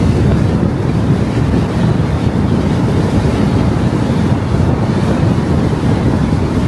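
Steady road noise from a car driving: a low tyre rumble with wind buffeting the microphone.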